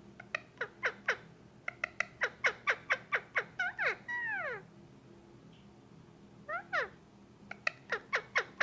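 Male Indian ringneck parakeet making quick runs of short calls that each slide down in pitch, about four a second, with two longer drawn-out falling calls about four seconds in, then a short pause before another run near the end.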